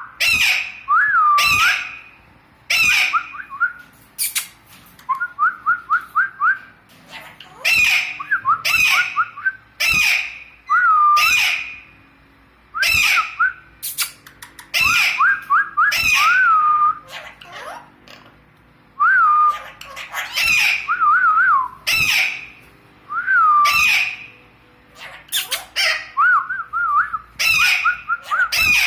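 Alexandrine parakeet giving loud, harsh squawks about once every second or so, with short whistled notes that rise and fall, and quick little trills, between them.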